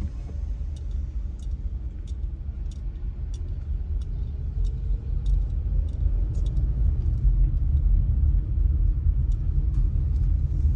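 Car on the move: steady low road and engine rumble, with a light ticking about one and a half times a second.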